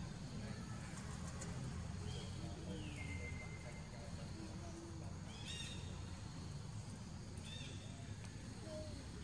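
Outdoor ambience with a steady low rumble. Over it, birds call: one long falling whistle about two seconds in, then short high chirps about five and a half and seven and a half seconds in, with another at the end.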